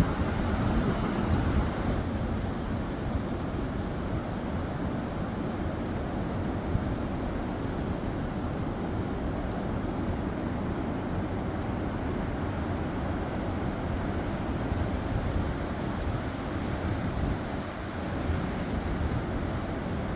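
Gusty wind blowing as a steady rushing noise, a little louder in the first couple of seconds.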